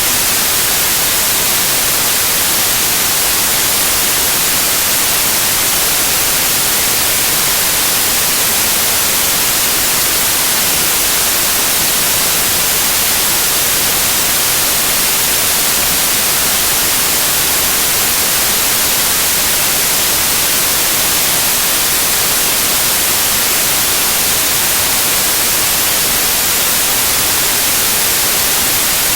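Loud, steady white noise: an even hiss, brightest in the high frequencies, with no changes.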